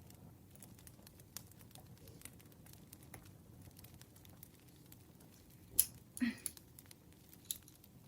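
Campfire crackling: scattered small snaps over a low steady rumble, with one sharp loud pop a little before six seconds in, a short rustling burst right after it, and another pop near the end.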